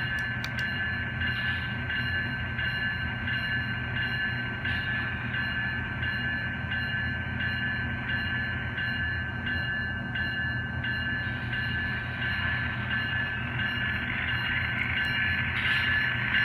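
N scale model of a CSX Tier 4 GE Evolution diesel locomotive pulling away with its train: a steady diesel engine rumble with a thin high whine over it, growing a little louder near the end.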